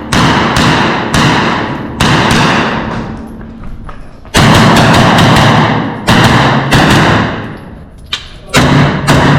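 Pistol shots, about ten, some in quick pairs and triplets about half a second apart and others after pauses of a second or two, each with a long echoing tail.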